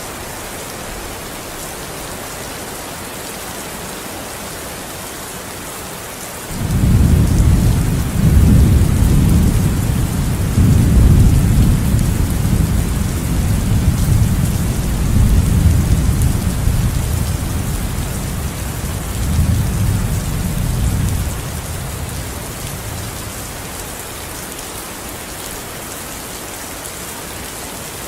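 Steady rain hissing, with a long roll of thunder breaking in suddenly about six seconds in. The thunder rumbles low for about fifteen seconds, swelling and dipping, then dies away.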